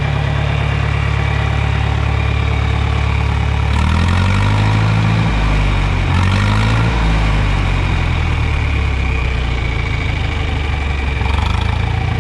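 John Deere 3010 propane tractor engine running. It idles steadily, speeds up about four seconds in with a few seconds of changing engine speed, then settles back down near the end.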